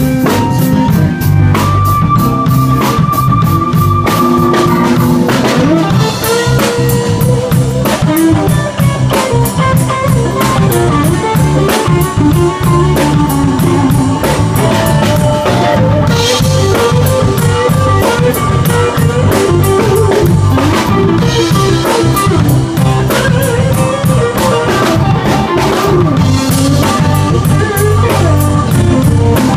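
Live blues band playing an instrumental stretch: guitar lines over a steady drum-kit beat.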